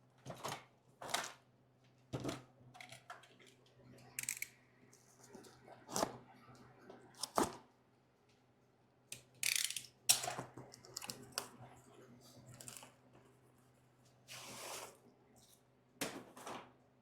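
Intermittent clinks, knocks and rattles of metal parts and tools being handled, with a faint steady hum underneath.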